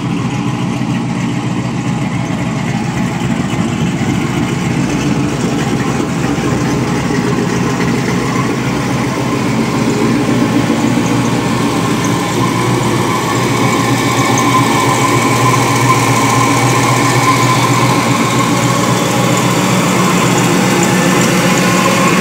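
Twin-turbocharged LS 5.3 L V8 engine running steadily, with a whine that grows stronger about halfway through.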